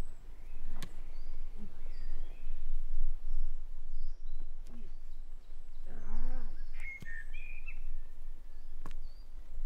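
Forest ambience with small birds calling in short chirps, a steady low rumble underneath, and a few sharp clicks. A brief human vocal sound comes about six seconds in.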